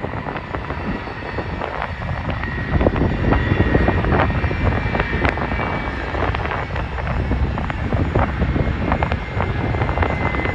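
Jet airliner engines running, a steady high whine over a heavy rumble, growing louder over the first three seconds.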